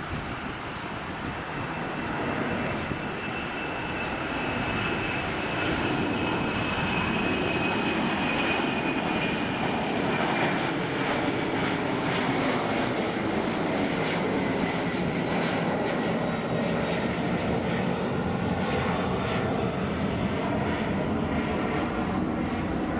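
Twin jet engines of an Alitalia Airbus A330-200 passing the airfield. The noise builds over the first several seconds, then holds steady, with a high whine that falls slowly in pitch.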